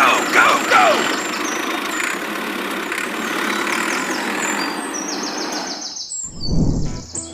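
A steady, noisy vehicle engine-like rumble, opening with a few falling squeals and cutting off about six seconds in, followed by a brief low thud.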